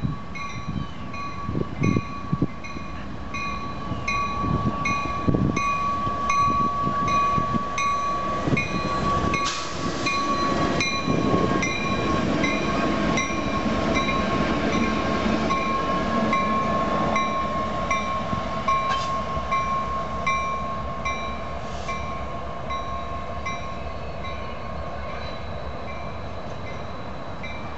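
Two Union Pacific locomotives running light past on the main line, their rumble building to its loudest in the middle and easing off near the end. A steady ringing repeats about twice a second throughout, over a constant high tone.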